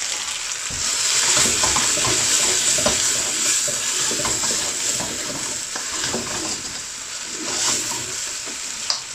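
Caramelized onions and freshly added tomato puree sizzling in a pan, stirred with a utensil that scrapes against the pan again and again through the steady frying hiss.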